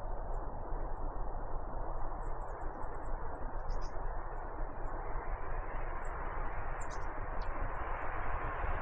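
A steady rushing noise, with faint, short, high chirps of tits scattered over it. The rushing widens and brightens near the end.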